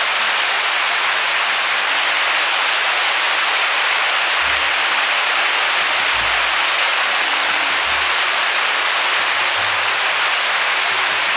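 Mountain stream rushing steadily below a bridge: a loud, even hiss of flowing water.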